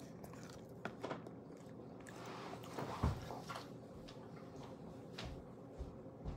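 Close mouth sounds of a person biting and chewing a forkful of cheesy crustless pizza. This is followed by a rustling shuffle with one sharp thump about three seconds in, then a few soft knocks near the end.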